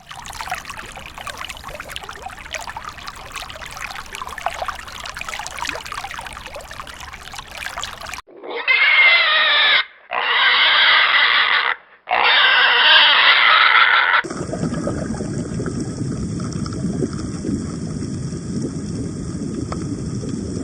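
Three loud, shrill animal squeals, each about a second and a half long with short breaks between them, come in the middle, after a stretch of crackly noise. A steady low rumbling noise follows until the end.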